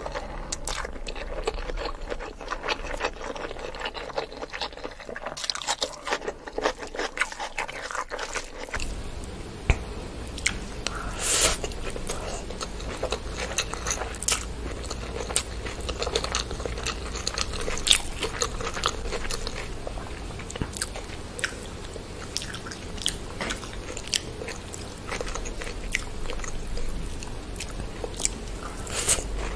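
Close-miked eating sounds: chewing and biting mouthfuls of chicken biryani eaten by hand, with many short wet clicks. A steady low hum comes in about nine seconds in.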